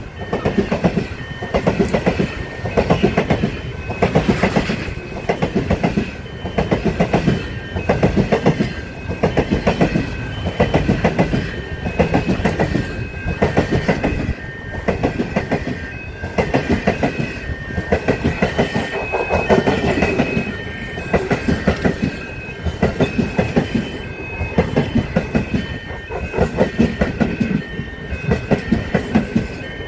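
Stainless-steel passenger carriages rolling past at speed: the wheels clickety-clack over the rail joints in quick clusters about every second and a half, over a steady rumble. A high ringing tone comes and goes above it.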